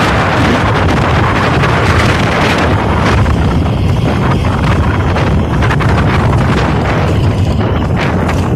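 Loud, steady wind noise rumbling on the microphone.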